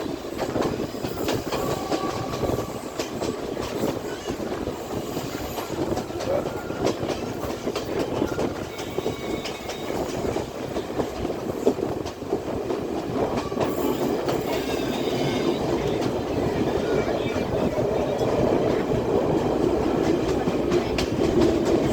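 Class S12 diesel multiple unit running along the line: a steady rolling rumble with the clickety-clack of wheels over rail joints, growing slightly louder toward the end.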